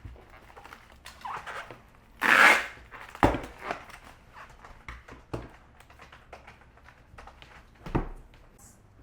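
Packing tape pulled off a roll in one short rasp about two seconds in, followed by a few light knocks of a package being handled on a counter.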